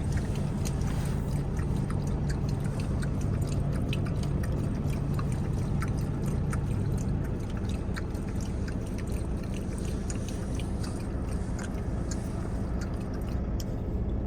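A dog lapping water from a bowl: irregular small wet clicks and slurps over a steady low hum that drops away about halfway through.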